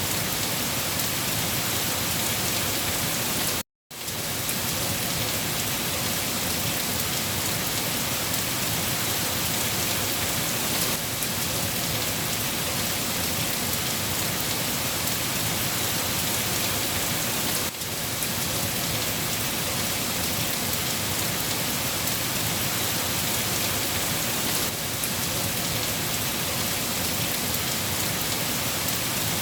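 Steady, dense rainfall with no change in intensity. The sound cuts out completely for a split second about four seconds in, then resumes.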